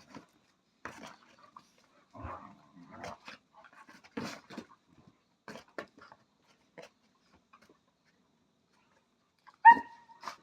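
Puppies moving about, making scattered light clicks and scuffles. Near the end comes one short, sharp puppy yelp, the loudest sound.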